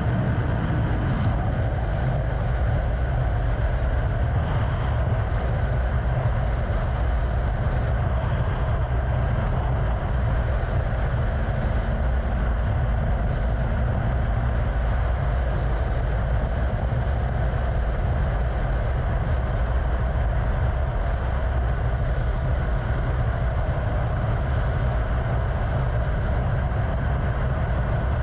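Vehicle travelling at a steady speed: a constant heavy rush of wind and road noise, deepest in the low end, with no change in pace.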